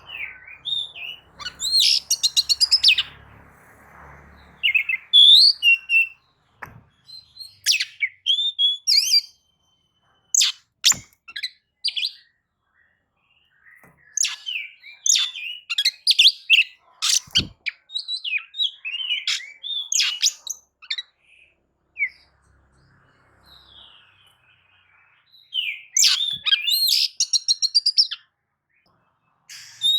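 Oriental magpie-robin (kacer) singing in loud, varied phrases of quick whistles, trills and sharp chirps, broken by short pauses and one longer lull a little past the middle.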